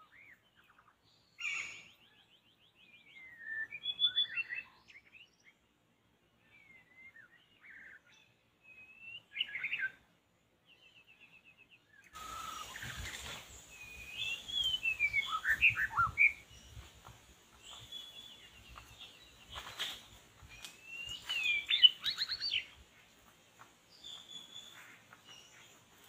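Songbird singing in varied whistled phrases, with chirps and quick rising and falling notes. The song comes in scattered bursts at first and becomes fuller and louder about halfway through.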